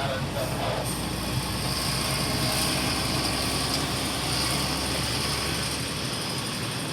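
Heavy diesel mining machinery running steadily, with mechanical clatter and a high hiss over a low engine hum. The low hum drops away near the end.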